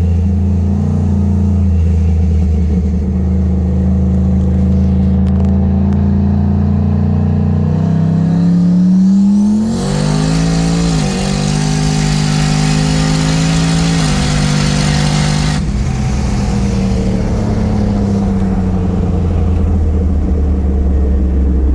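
Pontiac G8 GT's 6.0-litre V8 with a big turbo at 10 psi of boost, running steadily and then pulled hard from about eight seconds in. The engine note climbs, a loud rushing noise comes in, and the pitch drops sharply twice at upshifts. About sixteen seconds in the rush stops and it settles back to a steady cruise.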